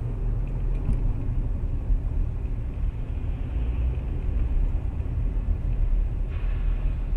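Steady low rumble of a vehicle driving, heard through a dashcam, with a faint hiss joining about six seconds in.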